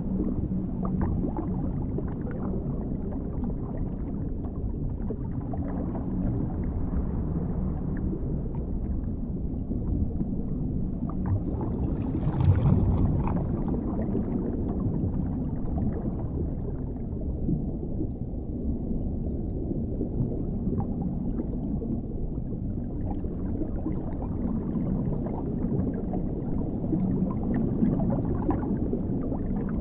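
Dark underwater ambience: a continuous low, muffled rumble of water, swelling briefly about halfway through.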